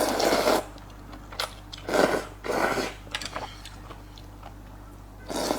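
Close-up eating sounds: several short, noisy bursts of chewing and biting, with a few sharp clicks between them.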